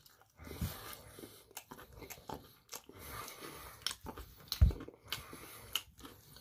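Close-up chewing and biting into crispy Korean fried chicken, with irregular crunches of the fried coating and one louder crunch a little past the middle.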